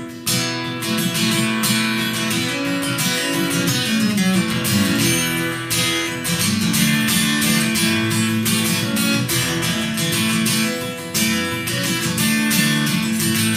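Acoustic guitar strummed in a steady rhythm, the instrumental intro played solo before the vocal comes in.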